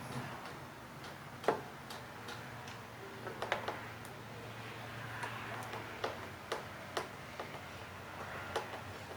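Irregular sharp clicks and taps of small tools and plastic or metal parts being handled while an electric heater is taken apart, the loudest about one and a half seconds in, over a faint low hum.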